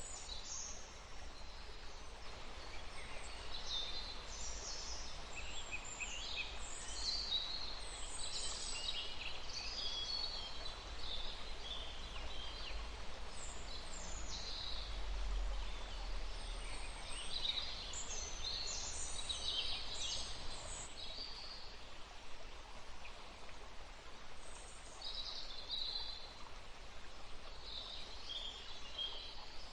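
Songbirds chirping and calling in quick clusters of short high notes, in bursts with a short lull about two-thirds of the way through, over a steady outdoor hiss and a faint low rumble.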